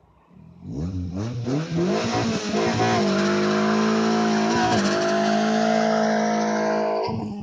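A 1992 Nissan Sentra with a home-made 4-inch-tip exhaust doing a burnout. The engine revs up from about half a second in and is held high and steady while the tyres spin and squeal, and the revs begin to fall near the end.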